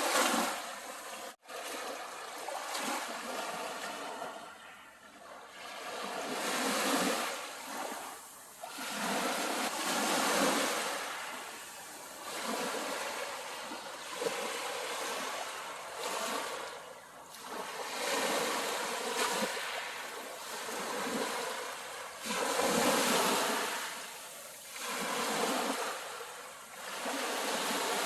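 Sea waves breaking on the shore: the surf swells and falls away every few seconds in a steady wash.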